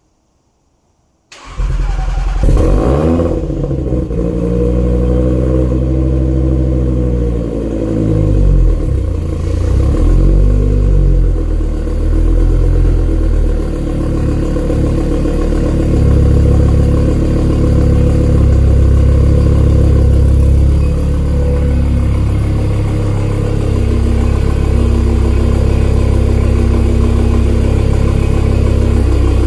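Cold start of a built 1000 hp 2018 Audi RS3's turbocharged 2.5-litre five-cylinder engine. It fires about a second in, flares up, and its revs rise and fall for several seconds before settling into a steady high idle.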